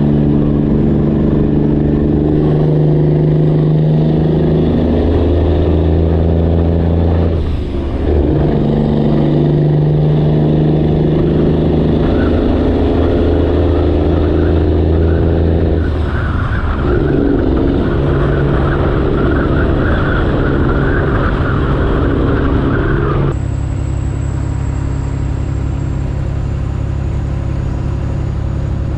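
Straight-piped Detroit Diesel engine in a Freightliner Classic XL truck pulling under load, loud and steady. The note breaks twice, about a quarter and halfway through, where gears are changed, then steps down and evens out near the end.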